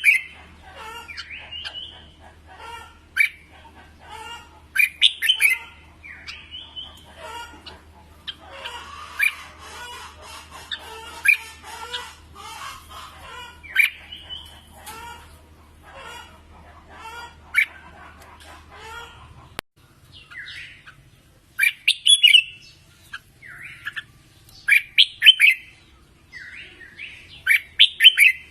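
Red-whiskered bulbuls singing, several birds overlapping in short, bright chirped and whistled phrases. A low background hum stops abruptly about 20 seconds in, and the song goes on with louder, clearer phrases.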